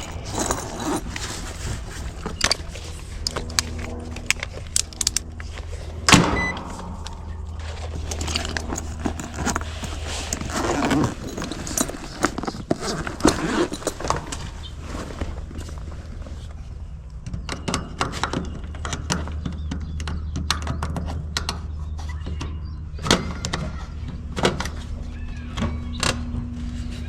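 Metal tools and parts clinking and knocking while an air-conditioning unit's run capacitor is handled and removed, with a sharp knock about six seconds in, over a steady low hum.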